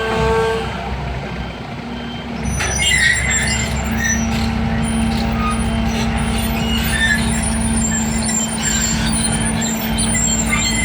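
Heavy diesel engine running steadily, growing louder about two and a half seconds in, with scattered high squeaks and hissing over it.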